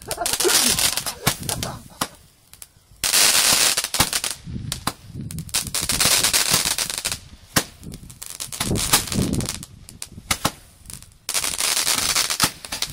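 Consumer fireworks going off: rapid runs of sharp pops and crackles that stop and start again several times.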